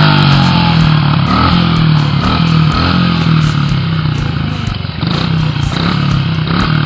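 Small mini dirt bike engine running close by at low revs, its pitch steady with a few slight rises.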